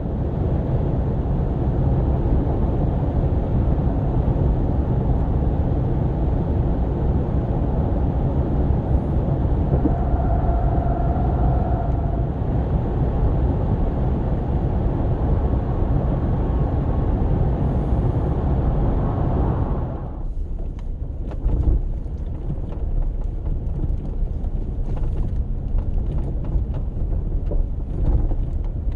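Steady low rumble of a car driving, with road and tyre noise. About 20 seconds in, the noise changes and turns rougher, with scattered clicks.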